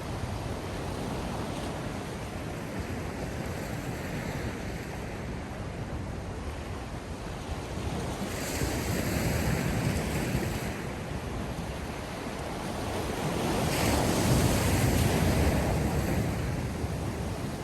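Sea surf washing in steadily, with two larger waves swelling and breaking, the first about eight seconds in and the second about fourteen seconds in.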